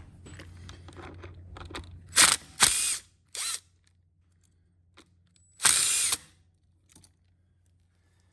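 Cordless power tool, such as an electric ratchet or drill, run in four short bursts, loosening bolts on a small engine's top end.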